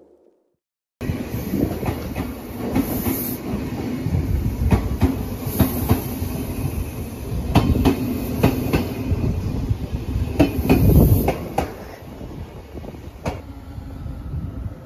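Electric commuter train passing close by: a steady rumble with its wheels clacking over rail joints in quick pairs. It starts abruptly about a second in and fades in the last few seconds.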